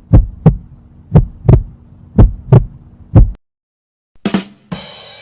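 Heartbeat sound effect: paired low thumps (lub-dub) about once a second over a steady low hum, cutting off about three and a half seconds in. Near the end a short burst and then a whoosh begin the next effect.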